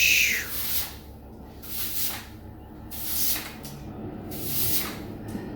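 Repeated swishing hiss, about four separate strokes roughly a second and a half apart, the first the loudest and opening with a short falling whistle.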